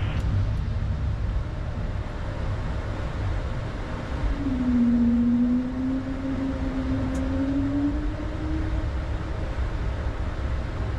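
Airbus A220-300 flight-deck noise while taxiing after landing: a steady low rumble and hiss, with a humming tone that comes in about four seconds in and slowly rises in pitch over some four seconds.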